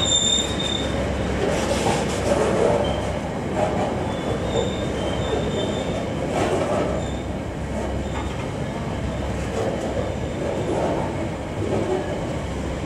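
Freight train's container flat wagons rolling past: a steady rumble of wheels on rail, with brief high-pitched wheel squeals coming and going.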